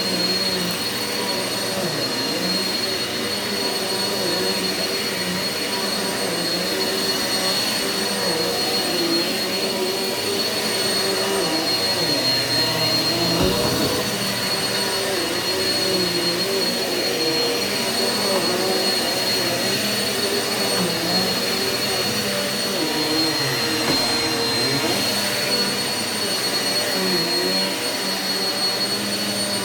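Eureka vacuum cleaner running steadily on carpet, its motor giving a constant high whine over the rush of air.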